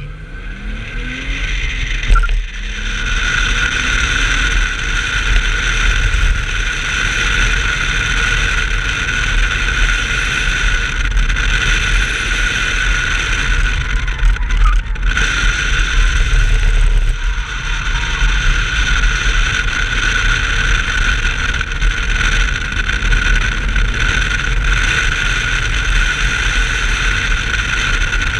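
A 1990 BMW 325i's 2.5-litre straight-six engine pulling hard at speed, rising in pitch through the first few seconds and then running steadily loud under heavy low rumble, with a steady high whine over it and brief dips about 15 and 17 seconds in.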